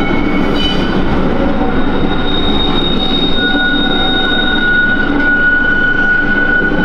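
Freight train of flat wagons rolling slowly, with a steady rumble and high-pitched wheel squeal: one squeal tone sets in about two seconds in and a second, lower one joins about a second later.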